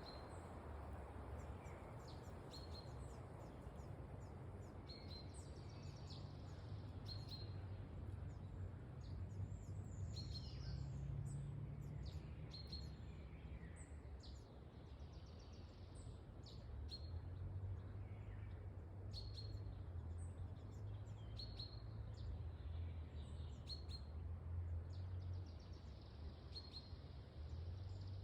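Wind in a forest, a low rumble that swells and eases, with birds calling over it: one bird repeats a short high chirp every second or two, and others call now and then.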